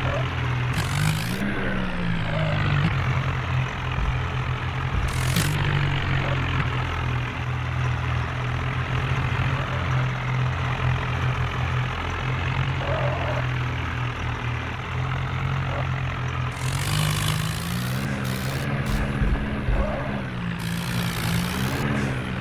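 Tractor diesel engine running steadily. Its pitch rises and falls briefly about a second in and again several times near the end as the revs change, with a few short bursts of hiss.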